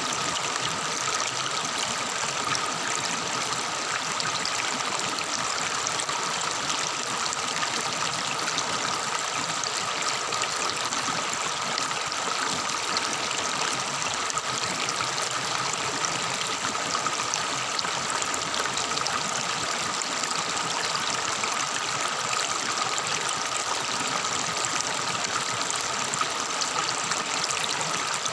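Shallow forest river babbling and trickling over stones, a steady, unbroken rush of running water.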